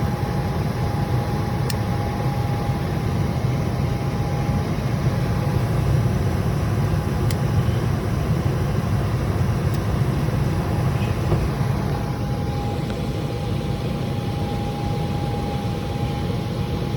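Residential HVAC system running steadily after a low-voltage short was repaired: a constant low motor and airflow hum with a thin steady whine above it.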